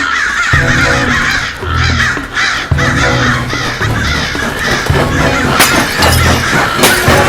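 Crows cawing again and again over a music score, with a few sharp clicks near the end.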